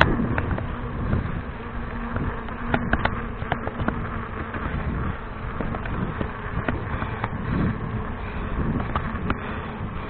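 Riding noise on a mountain bike: a rumbling, rustling haze with a faint steady buzz and scattered light clicks.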